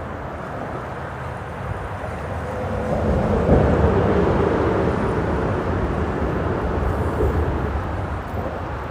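Freeway traffic on the bridge overhead: a steady rush that swells between about three and seven seconds in as a vehicle passes, with a faint tone sliding slightly lower as it goes by.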